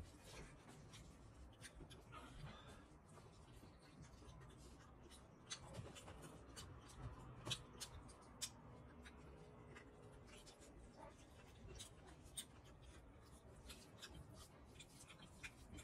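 Faint eating sounds from chewing rice and pork curry eaten by hand: scattered soft wet clicks and smacks, a few louder ones around the middle.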